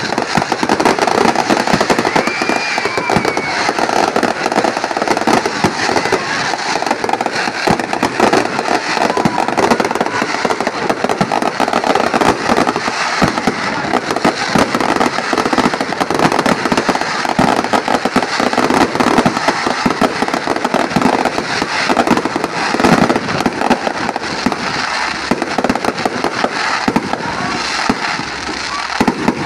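Fireworks display: a continuous dense barrage of rapid bangs and crackling from aerial shells bursting overhead.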